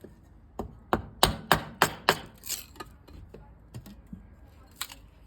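An irregular run of sharp knocks and clacks, about a dozen strokes, loudest in the first two seconds and sparser after, from metal camp-stove parts being handled and fitted together.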